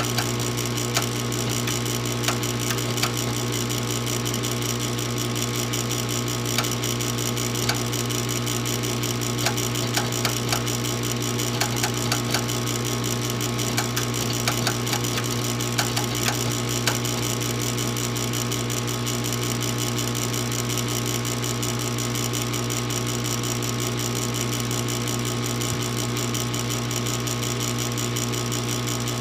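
A furnace's motor hums steadily. Irregular clicks and ticks sound over it for roughly the first half, then stop, leaving only the hum.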